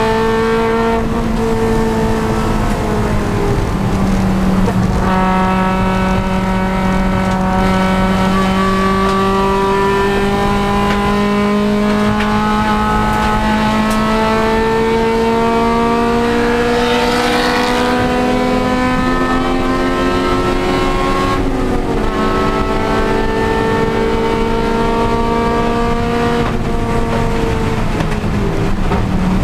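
Honda Civic Si race car's four-cylinder engine running hard at high revs. Its pitch climbs slowly through long pulls and drops sharply several times, with a brief hiss about 17 seconds in.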